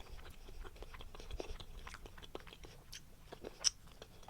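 A person chewing a bite of cheese bread: a run of small irregular mouth clicks, with one sharper click about three and a half seconds in.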